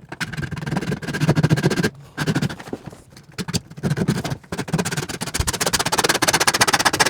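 Power saw cutting through a plumbing vent pipe in fast, rattling strokes, pausing briefly about two seconds in before cutting on.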